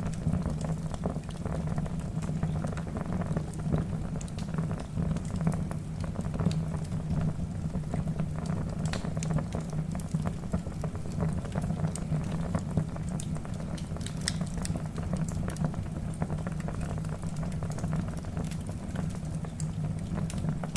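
Wood fire burning in a fireplace: a steady low rumble of flames with scattered crackles and pops from the logs, a few sharper pops clustering about nine, twelve and fourteen seconds in.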